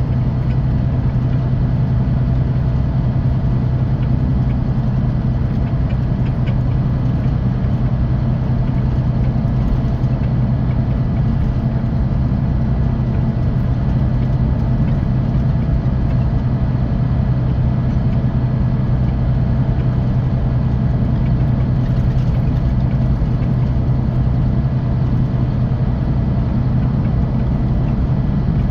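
Scania K450 coach's 13-litre six-cylinder diesel engine running with a steady low drone at an unchanging pitch.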